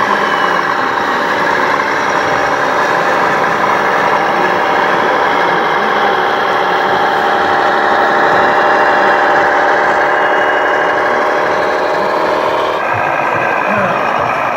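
Radio-controlled construction models running, a steady engine-like hum with a whine over it. The sound changes abruptly near the end.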